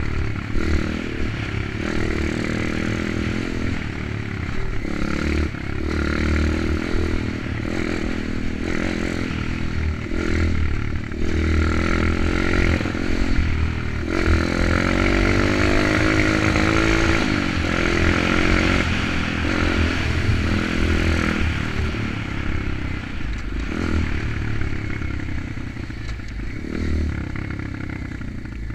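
Kayo 125 pit bike's single-cylinder four-stroke engine running as it is ridden, revving up and easing off through the gears, its pitch climbing and falling, with a rough rattling noise throughout.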